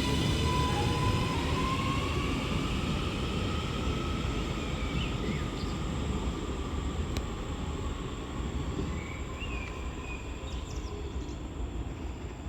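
Double Northern Class 331 electric multiple unit pulling away, its traction motors whining and rising in pitch as it gathers speed. Its rumble fades steadily as it moves off.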